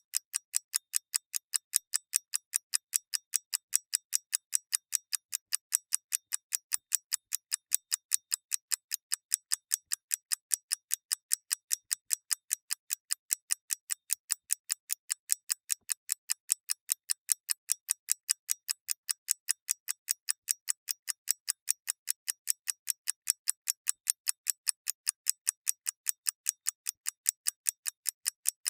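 Mechanical clock ticking in a quick, even, unbroken rhythm of sharp, high clicks, about four to five ticks a second.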